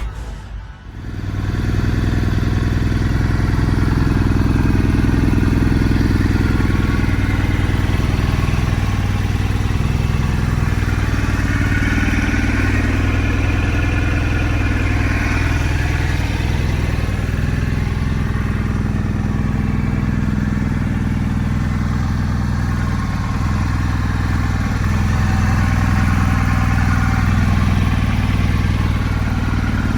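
1998 Suzuki GSX-R 600 SRAD's inline four-cylinder engine running steadily at idle, starting about a second in.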